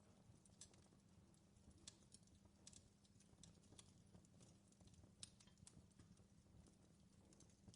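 Faint crackling of a wood fire in a fireplace: irregular small pops and snaps over a low, steady background.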